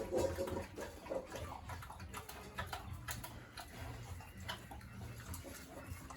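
Pen sounds from pigs: a short low grunt at the start, then scattered light clicks and taps over a low steady hum.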